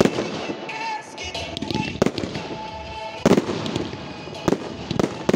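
Aerial firework shells bursting in a run of sharp bangs, about five in a few seconds, the loudest a little over three seconds in, with show music playing underneath.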